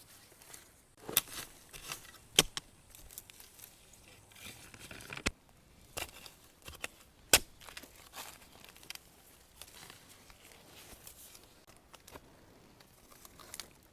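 Dry leaf litter rustling and crinkling as it is handled, with about five sharp snaps scattered through the first half.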